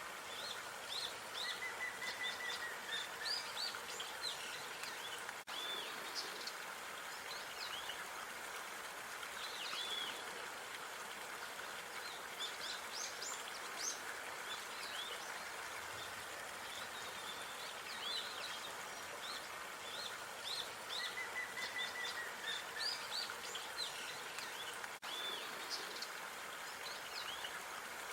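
Outdoor park ambience: many small birds chirping in quick short calls over a steady background hiss, with a brief trill about two seconds in and again later.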